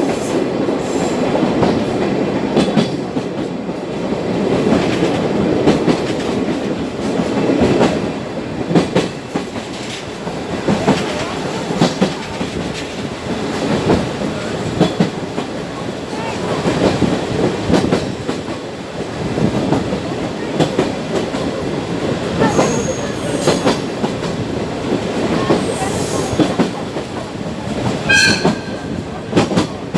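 Sagano sightseeing trolley train running, heard from inside the carriage: a steady rumble with the wheels clicking over rail joints. A few brief high-pitched wheel squeals come near the end.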